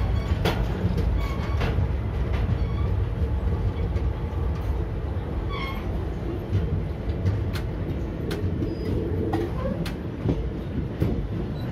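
Indian Railways passenger train pulling out of a station, heard from the coach doorway: a steady rumble of the wheels on the track, with irregular clacks and knocks as they cross rail joints and points.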